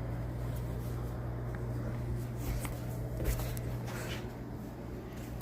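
Steady low hum with a few faint clicks and rustles, the sharpest a little past three seconds in.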